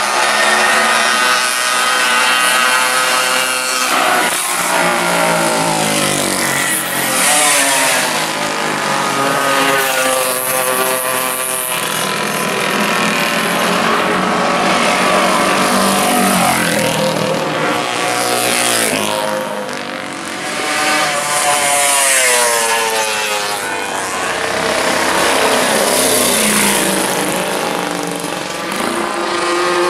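A classic racing motorcycle engine at race speed. It revs up and drops back in pitch again and again as the rider works through the gears, under a steady high hiss.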